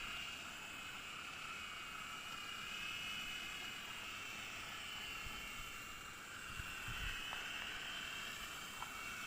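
Small electric RC helicopter (CZ02 Black Ant) in flight: the steady high whine of its little electric rotor motors as it hovers and struggles forward against the wind. A few low bumps of wind on the microphone about seven seconds in.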